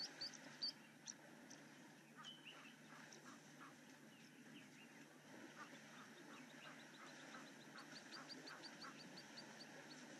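Faint wild bird calls: a few sharp high chirps about a second in, short repeated calls through the middle, and a quick run of short high notes rising in pitch near the end.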